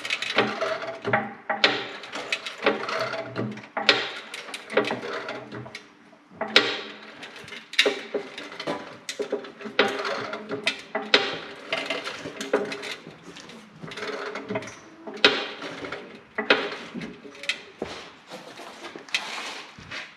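A hand-pumped jack lifting a tractor by its steel oil-pan skid plate: a string of irregular clicks and knocks from the jack's pumping strokes.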